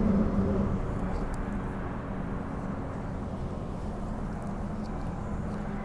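Bombardier B-series electric multiple unit running along the track, heard from inside the carriage: a steady rumble with a low, even motor hum, a little louder in the first second.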